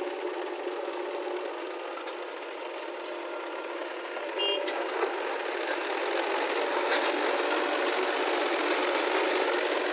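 Diesel engine of a JCB 3DX backhoe loader running steadily while it loads mud. It grows louder from about halfway, with one short sharp sound about four and a half seconds in.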